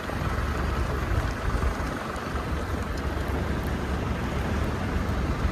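Snowstorm wind buffeting the microphone: a steady rushing noise with a heavy, uneven low rumble.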